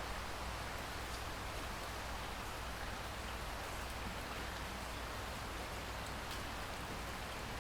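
Steady rainfall, an even hiss of rain on surfaces with a few separate drop ticks.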